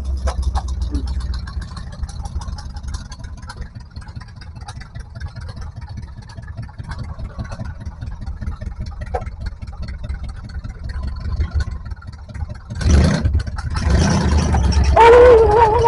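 Off-road 4x4 engine running at low speed with a steady rumble. It gets suddenly louder about thirteen seconds in, and a short wavering tone comes near the end.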